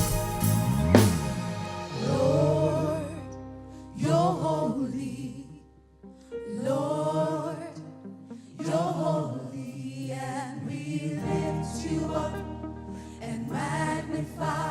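Gospel worship music: a choir singing phrases without clear words over sustained keyboard chords, with drum hits about a second in.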